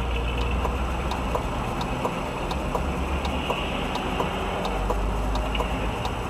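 Steady low rumble of a moving car, with a regular light ticking about one and a half times a second.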